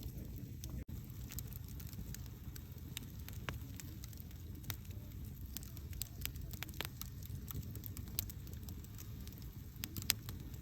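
Wood campfire burning: a steady low rumble of flames with scattered sharp crackles and pops, the loudest near the end. There is a split-second gap in the sound about a second in.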